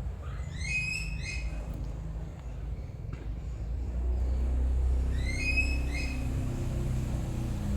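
A bird calling in two short bursts of quick rising chirps, the first about a second in and the second about five seconds in, over a steady low rumble.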